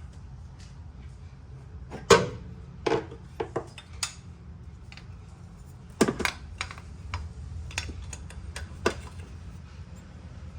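Metal clinks and knocks of hand tools and a metal bracket being handled and fitted, irregular and scattered, loudest about two seconds in and again about six seconds in, over a steady low hum.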